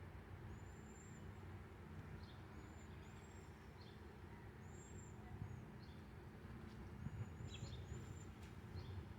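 Faint, high, thin bird calls, short arched notes repeating every second or two, over a low steady background rumble.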